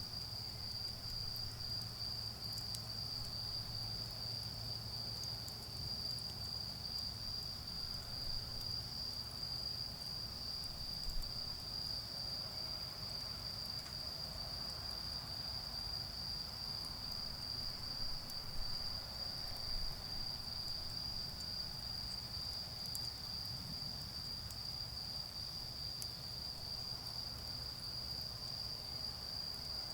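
Autumn insects calling in one steady, unbroken high-pitched trill, over a low rumble of distant road traffic, with a few faint clicks from the charcoal fire.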